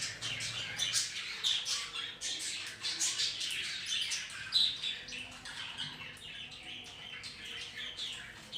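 Caged budgerigars and a parrot chattering, with a rapid run of short chirps and squawks that is busiest in the first half and thins out toward the end.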